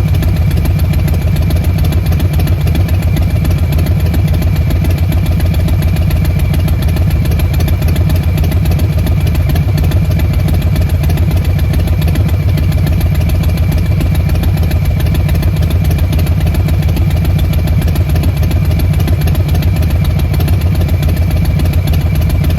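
2020 Harley-Davidson Softail Standard's Milwaukee-Eight 107 V-twin idling steadily through a Vance & Hines Short Shots exhaust.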